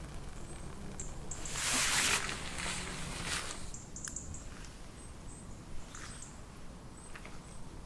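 Thin, very high-pitched calls of small forest birds, short notes repeated every second or so. About two seconds in, a louder rushing, crackling noise lasts a couple of seconds.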